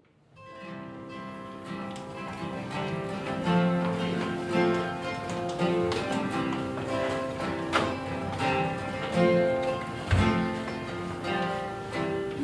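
Instrumental introduction to a musical-theatre song: plucked acoustic guitar notes over sustained chords, fading in at the start.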